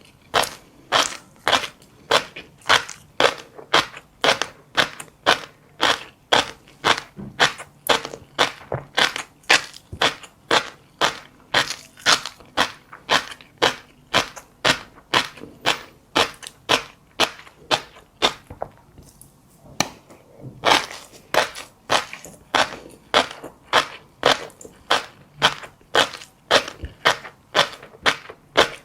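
Close-miked, crisp crunching of passion fruit seeds being bitten and chewed, at a steady pace of about two crunches a second, with a brief pause a little past two-thirds of the way through.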